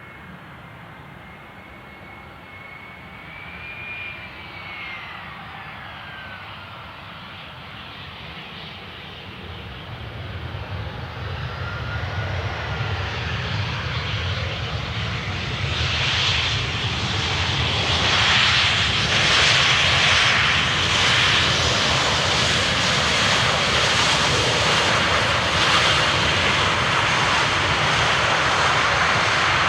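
Jet airliner's engines growing steadily louder as the aircraft approaches and passes close by. A thin whine rises and then falls in pitch in the first few seconds, and from about halfway a loud, steady rush of engine noise with a high whine takes over.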